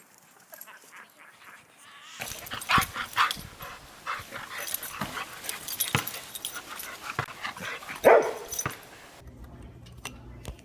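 Dog-like barking and yipping: a run of short barks that starts about two seconds in, with the loudest bark near the end, and stops about nine seconds in.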